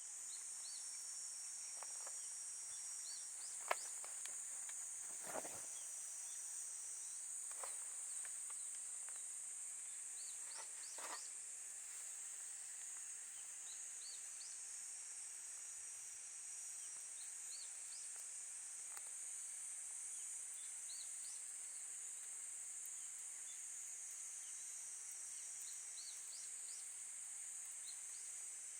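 A steady, high-pitched chorus of summer insects, with a few sharp crackles and pops from a wood campfire in the first half.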